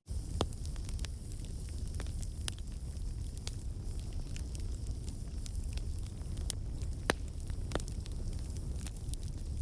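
Wood campfire burning, crackling with irregular sharp pops over a steady low rumble of the flames; a couple of pops stand out louder, one near the start and one about two-thirds of the way through.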